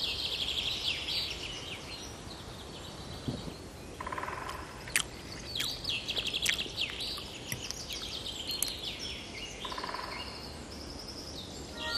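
Birdsong: small birds chirping and trilling, with quick whistled notes, over a faint steady background hiss.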